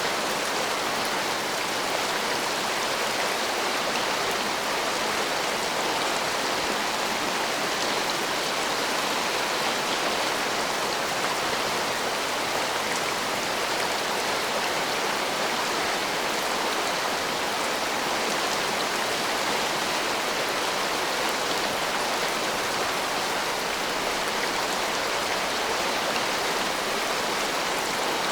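Heavy rain pouring steadily, an even hiss without thunderclaps.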